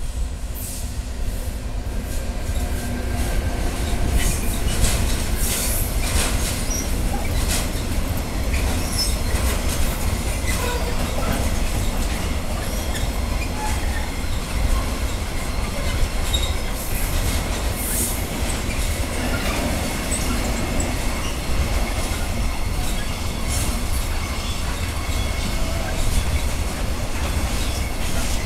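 Long intermodal container freight train, hauled by two Taurus electric locomotives, rolling past. Its wheels make a steady rumble on the rails, with rapid clicks over the rail joints and brief high wheel squeals, about five seconds in and again about eighteen seconds in.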